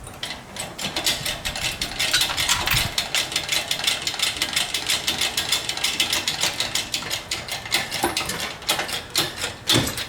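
Rapid mechanical ratcheting clicks, about seven a second, beginning just after the start and keeping an even pace throughout.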